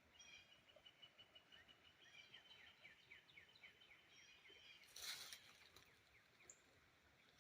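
Faint songbird song: a fast series of short, high down-slurred notes repeated several times a second for about four and a half seconds, with a short rustling burst about five seconds in.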